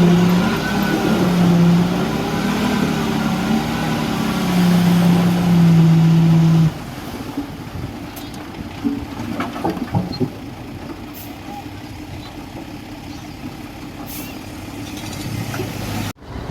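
A heavy diesel engine of construction machinery runs loudly, its pitch rising and falling with load, and cuts off abruptly about seven seconds in. After that there is a quieter background with a few scattered knocks.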